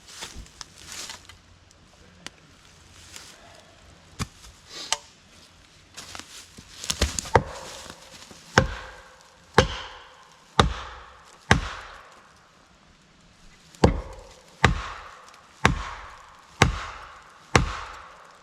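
Hard blows of a steel striking tool on a felling wedge driven into a pine's saw cut. A few scattered knocks come first, then a steady run of about ten strikes, roughly one a second.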